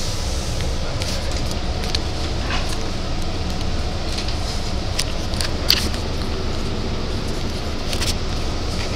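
Steady low rumble of a Long Island Rail Road C3 bilevel passenger coach running along the track, heard from inside the cabin. Scattered sharp clicks and rattles sound over it, the sharpest a little past halfway.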